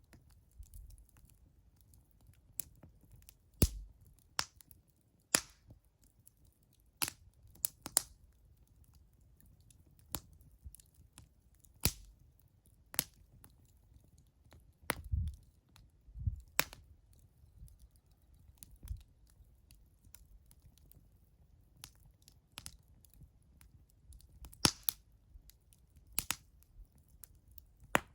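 Wood fire crackling, with irregular sharp pops among smaller ticks and crackles.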